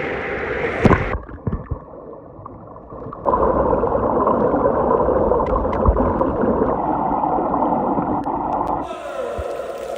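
Muffled, churning water with bubbling, as heard from underwater, loud for most of the stretch. About a second before the end it gives way to a brighter hiss of waves.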